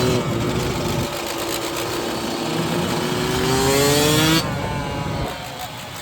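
Dirt bike engine running under throttle. Its pitch holds steady, climbs from about three seconds in, then drops off sharply about four and a half seconds in as the rider comes off the gas or shifts.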